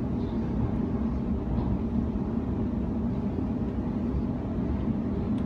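Cabin noise inside a moving electric suburban passenger train: a steady low rumble of wheels on rail and running gear, with a steady hum underneath.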